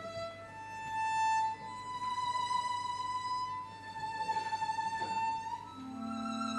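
A violin playing a slow melody of long held high notes that slide from one to the next. About six seconds in, lower strings come in under it with a held chord.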